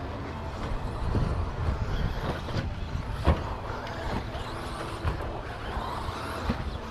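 Radio-controlled 2WD stadium trucks racing on a turf track: motors running and tyres working the surface. There are a few sharp knocks, the loudest about three seconds in.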